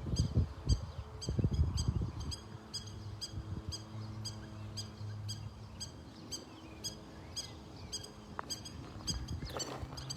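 A bird calling in a fast, even series of short high chirps, about three a second, with a few low thumps of footsteps or handling in the first two seconds.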